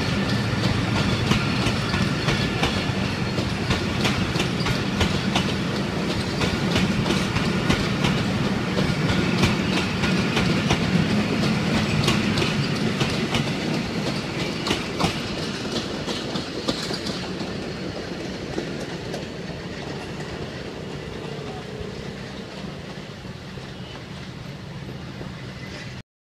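Pakistan Railways passenger coaches rolling past, their wheels clicking over the rail joints. After the last coach passes, the sound fades slowly as the train draws away, then cuts off suddenly near the end.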